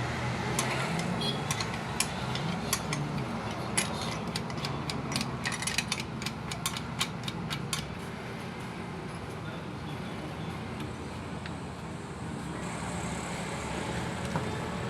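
Steady low machinery drone with a run of sharp metallic clicks and taps through the first half, thinning out after about eight seconds.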